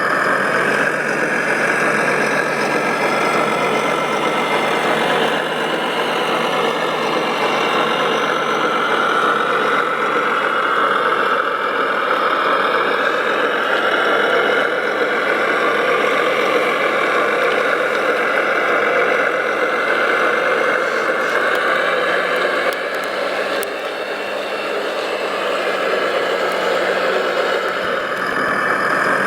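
Radio-controlled model construction machinery running: a steady motor and engine drone that wavers slightly in pitch, dipping briefly a little past the middle.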